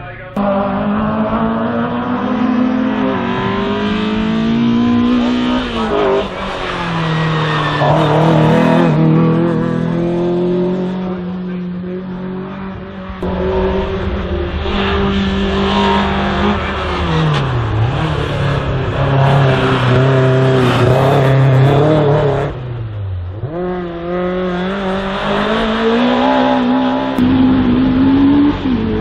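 Race car's engine revving hard through an autoslalom run: the pitch repeatedly climbs under full throttle, then dips sharply when the driver lifts off to brake and turn around the cones.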